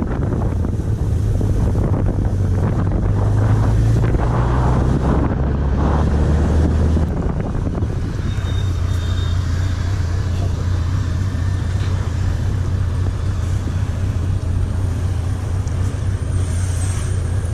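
Motorcycle engine, a Suzuki GSX1100F inline-four, running steadily under way with wind rush; the engine note eases slightly about seven seconds in.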